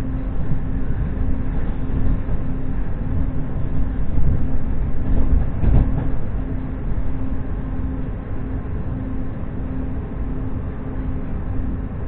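Running noise heard inside an electric commuter train travelling at speed: a steady rumble of wheels on track with a low steady hum. About six seconds in, a short, louder clatter of the wheels.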